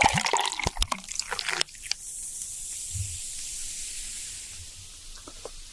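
Close-up wet food sounds: quick squishy clicks and smacks of saucy food being handled, then a steady high hiss from about two seconds in that slowly fades.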